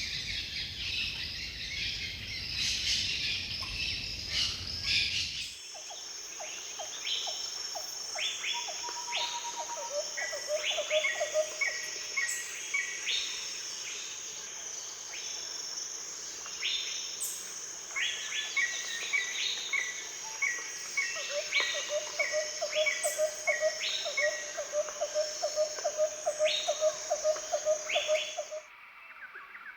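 Birds calling and chirping over a steady high-pitched insect drone, with repeated short calls and a low rapid trill. The mix changes abruptly about five seconds in, when a denser, noisier chorus with a low rumble gives way, and again near the end.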